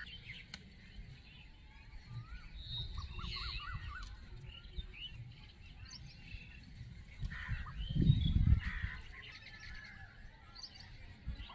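Small birds chirping and calling, with short calls scattered through the whole stretch. About eight seconds in a brief low rumble is the loudest sound.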